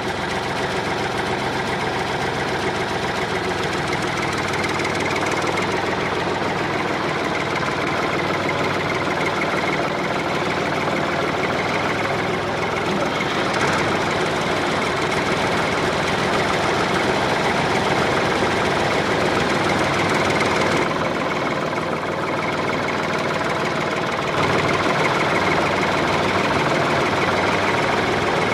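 A homemade model tractor's small motor running steadily.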